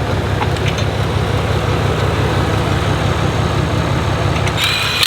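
Steady low rumble of a vehicle engine idling. Near the end, an impact wrench whirs in with a high-pitched whine.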